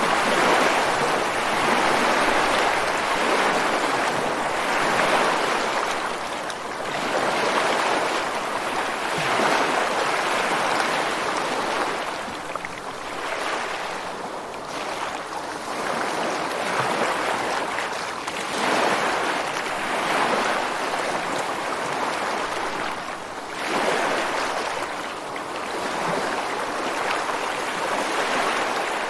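Ocean surf breaking and washing ashore over rocks, a steady rushing of water that swells and fades every few seconds as each wave comes in.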